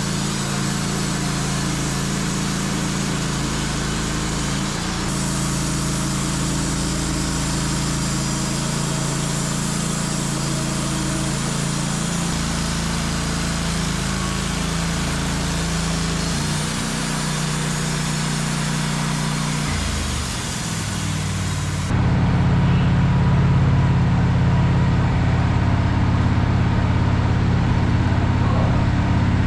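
Sawmill engine running steadily during a cut, its pitch shifting a little now and then. About three-quarters of the way through the sound changes abruptly to a louder, deeper engine note with less hiss.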